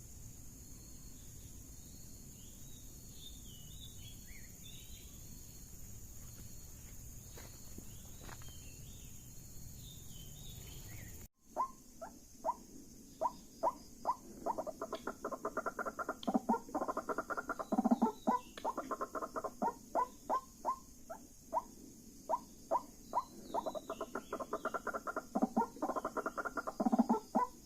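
Faint bird and insect chirping for about the first ten seconds. After a sudden cut, a white-breasted waterhen's call begins: a fast, harsh run of repeated notes that swells louder in places.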